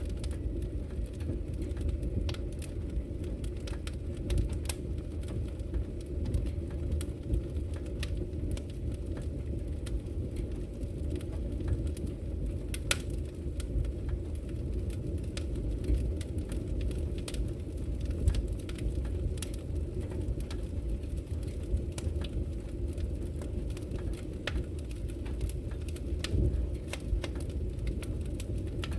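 Fireplace fire crackling: a steady low rumble of burning with scattered sharp pops and snaps, irregularly spaced.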